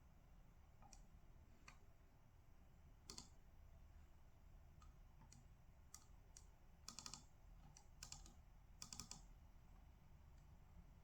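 Faint computer keyboard clicks, a few single keystrokes and two short runs of keys, irregular and sparse, over a low steady hum.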